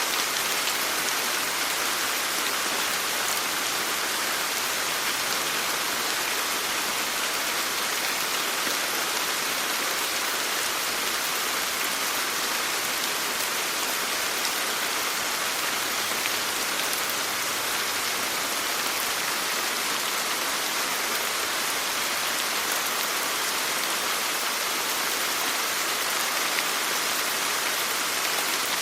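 Steady rain falling, an even hiss of rain on a surface with fine patter of drops.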